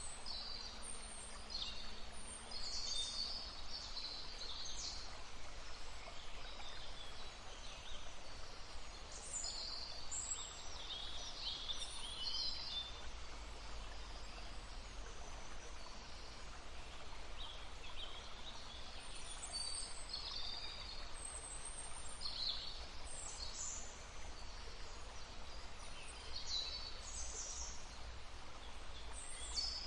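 Several songbirds singing and calling in short, high phrases throughout, over the faint steady murmur of a brook.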